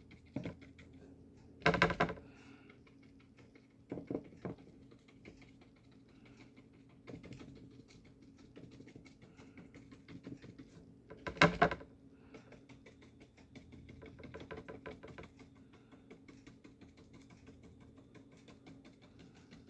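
Stiff bristle brush dabbing gouache onto paper in rapid light taps. A few louder knocks stand out, about two seconds in and again near the middle.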